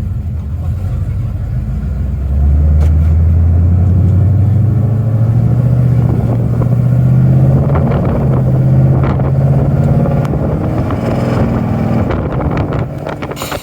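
Cammed 2005 Ford Mustang GT 4.6-litre three-valve V8 pulling away through long-tube headers, an H-pipe and a Borla ATAK axle-back exhaust. The exhaust gets loud about two seconds in, climbs steadily in pitch as the car accelerates, and eases off near the end.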